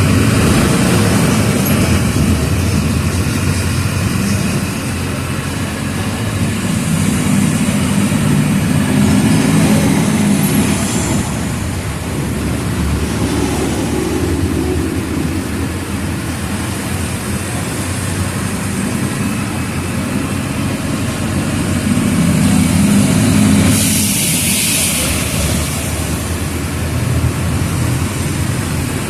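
Mercedes-Benz OF 1722M bus engine running under way, its note rising and falling several times as it pulls and eases off. Near the end there is a short hiss of compressed air.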